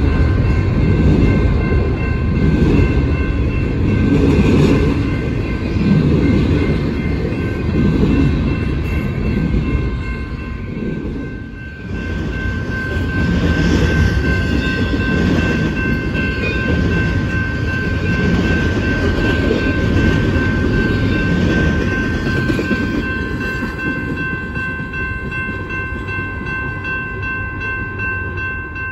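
BNSF double-stack intermodal container train rolling past, its wheels rumbling and clattering on the rails, while a grade-crossing bell rings steadily over it. The rumble fades gradually near the end as the last cars draw away.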